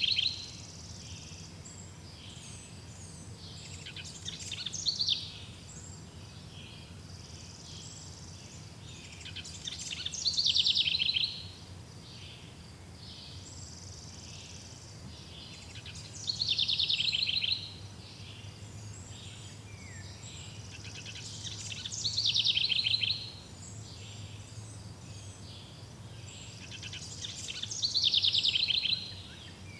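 A songbird sings the same short, high, quickly trilled phrase over and over, each phrase lasting about a second and coming roughly every six seconds, six times in all. Beneath it runs a faint, steady background.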